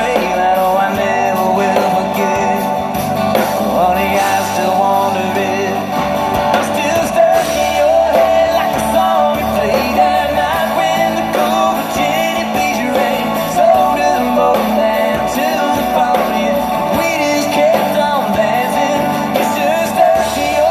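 Live band playing a country-rock song, with guitars and singing.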